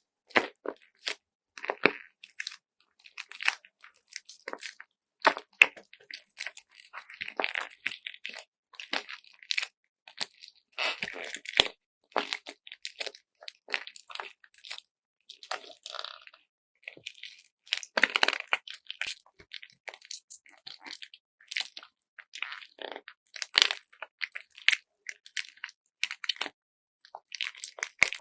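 Handmade squeeze bag filled with slime and glitter beads being squeezed and kneaded by hand, giving irregular crunchy crackles and squishes.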